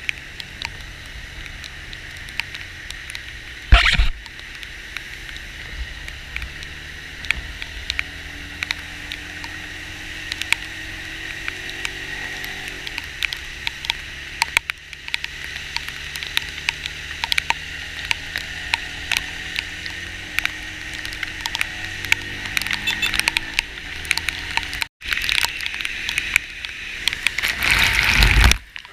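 Heavy rain and water spray around a moving vehicle, with many sharp drop hits, over the vehicle's engine drone, whose pitch climbs twice as it speeds up. Loud surges of rushing water about four seconds in and again near the end.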